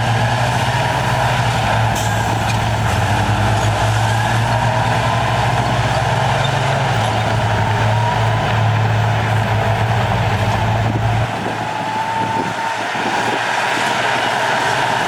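Heavy diesel earthmoving machinery running under load, a steady low engine note with a high whine over it. The low engine note drops away about eleven seconds in.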